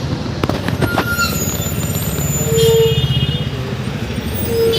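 City road traffic: a steady engine rumble of buses and trucks, with two short horn toots, one about halfway through and one near the end.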